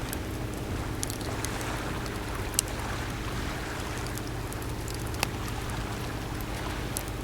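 Wood campfire crackling, with a few sharp pops scattered through, over a steady wash of sea waves.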